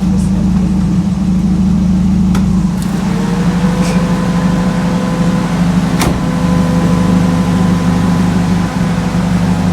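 A car's engine runs with a steady hum, with two sharp clicks about two and a half and six seconds in.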